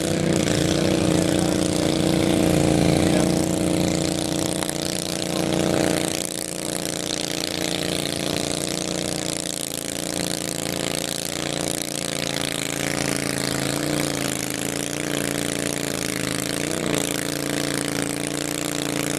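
Twin-cylinder garden tractor engine running steadily, its pitch holding with small brief dips and wobbles.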